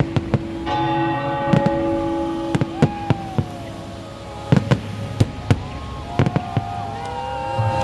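A string of sharp firework bangs goes off throughout, with whistling tones that glide up and down. A struck bell rings and fades over the first second or two.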